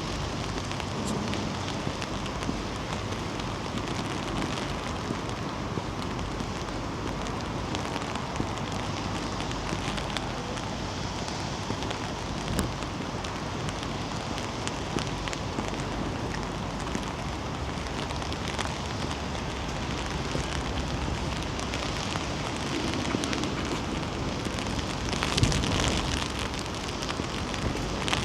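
Steady rain: a close patter of drops over a constant hiss, with wind rumbling on the microphone; it gets louder a few seconds before the end.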